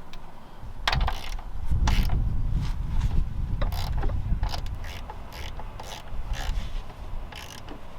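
Metal parts and hand tools clanking while a car's front suspension is being fitted: irregular sharp clicks and knocks, over a low rumble through the first half.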